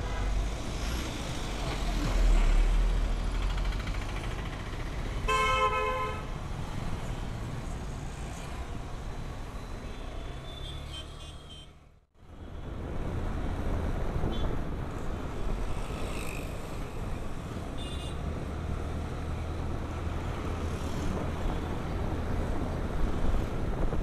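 Road traffic noise with a steady low engine and wind rumble. A vehicle horn honks once about five seconds in, and a few fainter horn toots follow. Near the middle the sound fades out briefly and comes back.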